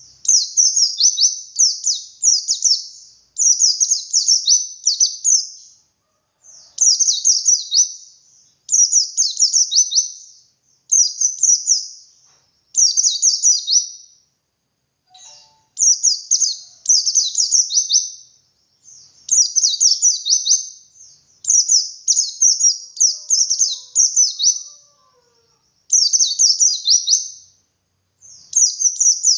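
A pleci dakun white-eye singing its long 'ngalas' song, with 'wit wit' variations: high, rapid twittering phrases of a second or two, repeated over and over with short pauses between them.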